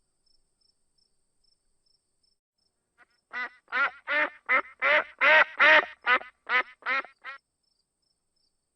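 A duck quacking: a quick run of about eleven harsh quacks, starting about three seconds in and lasting about four seconds.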